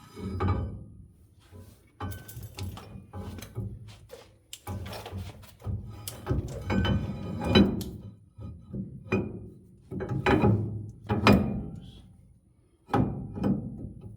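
Heavy steel rear-axle parts of a Ford F-250 being slid back into place on the axle: a run of metal clunks, knocks and scrapes in irregular clusters, with brief metallic ringing.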